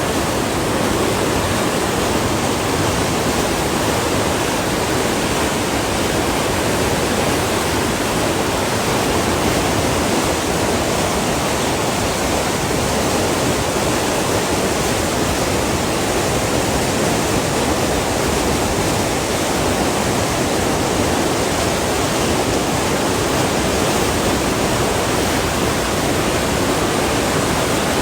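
Loud, steady rush of a river swollen by rain, its water level raised.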